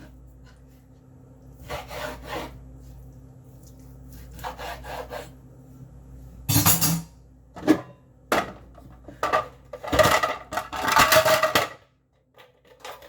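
A kitchen knife sawing through a raw chicken breast on a cutting board, in a few short scraping strokes. About halfway through come louder knocks and clatter, rising to a dense clatter near the end.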